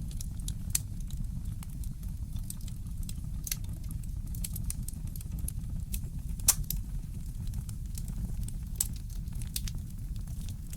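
Wood fire in a fireplace crackling, with irregular sharp pops and one louder pop about six and a half seconds in, over a steady low rumble.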